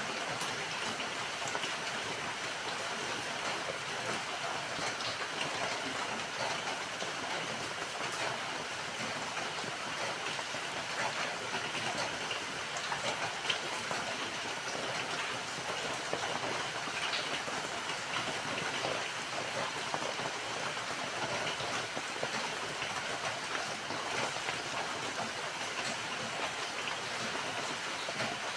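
Steady rain falling, a dense even hiss with many small drop patters throughout.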